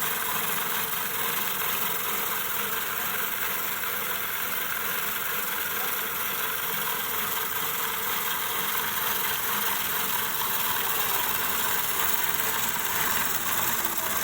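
A machine running steadily with a loud, even rushing noise, which cuts off abruptly at the very end.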